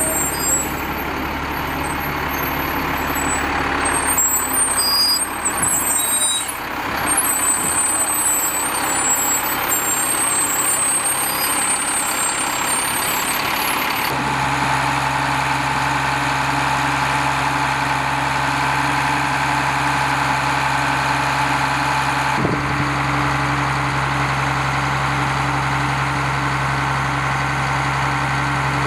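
Engine-driven machinery running: for the first half a noisy mechanical clatter with high squealing over it, then a steady engine hum with a clear low pitch from about fourteen seconds in.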